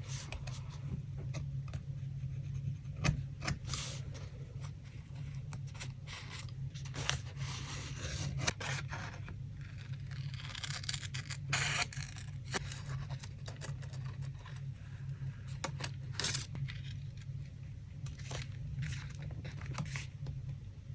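Paper collage materials being handled, with scraping, rubbing and rustling and many small sharp taps and clicks, over a steady low hum.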